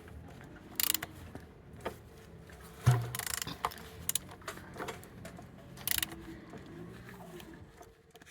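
A used engine being turned over by hand: clicks and scraping strokes from the tool and the turning internals, with one heavy clunk about three seconds in.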